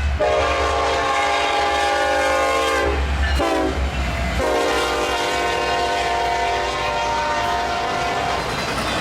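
Diesel freight locomotive's air horn sounding a long blast, a short one and another long one, over the low rumble of the passing train.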